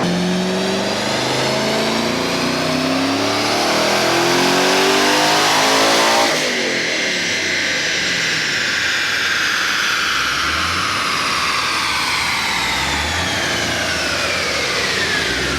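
Twin-turbo 5th-gen Camaro engine making a full-throttle pull on a chassis dyno. The engine pitch climbs steadily for about six seconds, then the throttle shuts suddenly, and a high whine falls away slowly as the engine and rollers wind down.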